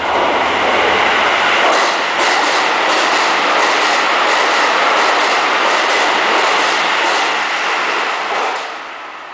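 Keisei electric commuter train running through a station without stopping: a loud rush of running noise with quick clickety-clack of the wheels over the rail joints as the cars go by, dying away near the end.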